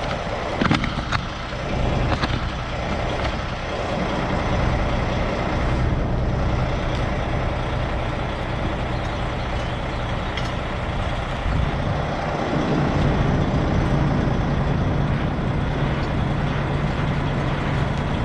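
Semi truck's diesel engine idling steadily, with a few sharp metal clicks in the first second or so; the engine hum grows steadier and a little louder about twelve seconds in.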